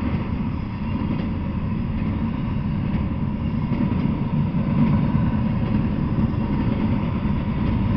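Double-stack intermodal container freight train rolling past, a steady low rumble of wheels and cars on the track.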